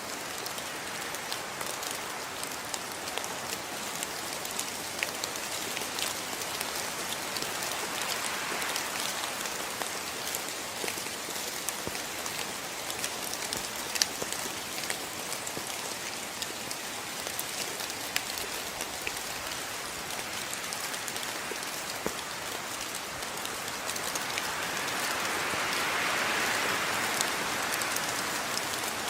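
Steady rain falling, with individual drops landing in sharp ticks now and then; the rain grows a little louder near the end.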